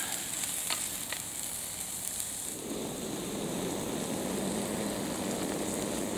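Squirrel meat, red onion and sauce sizzling as they fry in a pan on a small gas camping stove, with a couple of light fork clicks about a second in. About two and a half seconds in, the high sizzle gives way to a lower, steady rushing noise.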